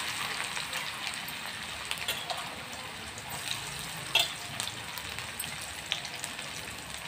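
Chopped onion frying in hot oil with mustard seeds in a kadhai: a steady sizzle with scattered crackling pops, one louder about four seconds in.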